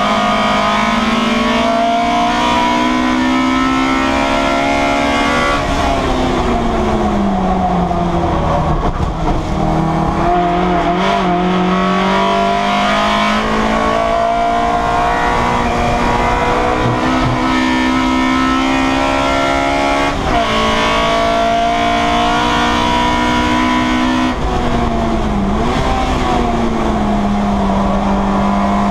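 Citroen Saxo race car's four-cylinder engine, heard from inside the cabin at racing pace. It revs up and falls back repeatedly through the gears, with sudden dips in pitch at gear changes about two-thirds of the way through and again shortly after.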